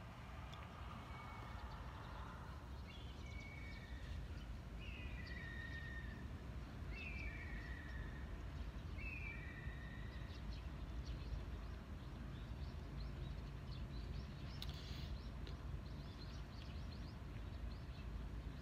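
Birds calling over a steady low background rumble: about four down-slurred calls in the first half, then a spell of quick, high chirps and ticks later on.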